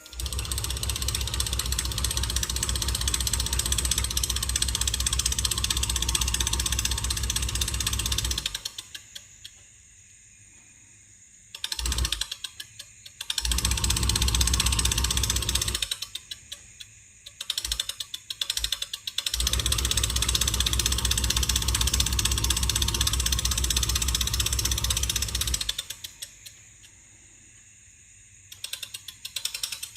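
Small DC motor of a homemade can ceiling-fan model running with a rapid clicking whir. It is switched on and off several times: three longer runs with short stuttering bursts between them and near the end.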